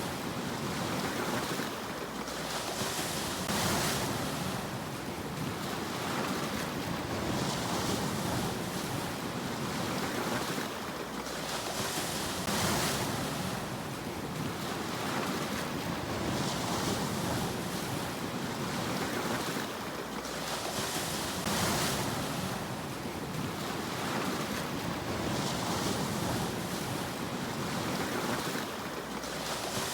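Sea waves breaking on a shore, a brighter hissing wash of surf coming in about every four to five seconds over a steady rumble of water.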